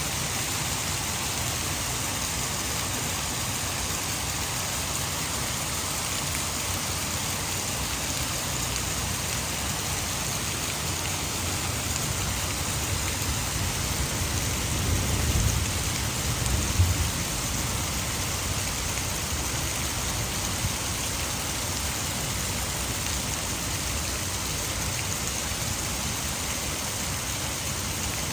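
Heavy rain falling steadily, with a low rumble of thunder swelling and fading about halfway through.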